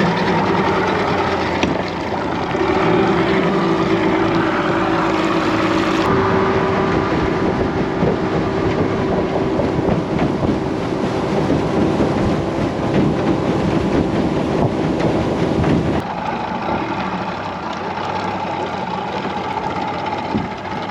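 Outboard motor running steadily on a small aluminium boat under way. The sound changes suddenly twice, about six and sixteen seconds in.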